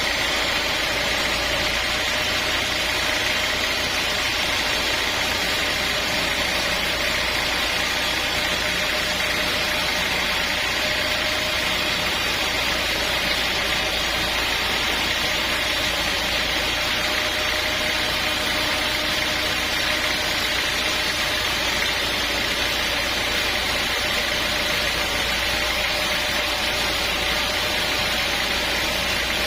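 Sawmill machinery running steadily, a constant engine-like drone with a held mid-pitched tone and a bright hiss above it, no breaks or changes.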